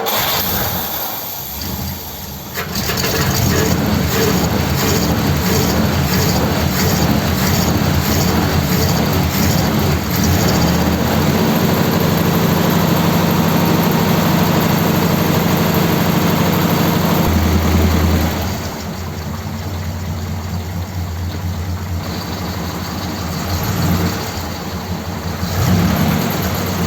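A 1957 Ford Thunderbird's Y-block V8 cold-starting: it cranks and catches within a couple of seconds, then runs at a fast idle on the choke. About eighteen seconds in the idle drops and settles lower, with a brief rise in revs near the end.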